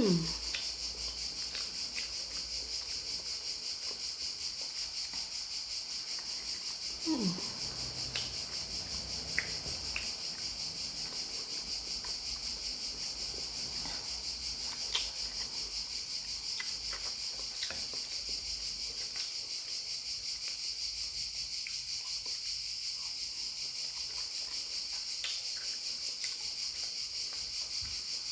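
Steady high-pitched chorus of crickets or similar night insects, pulsing evenly. A short falling 'mm' from a voice comes about seven seconds in, and a few faint clicks are scattered through.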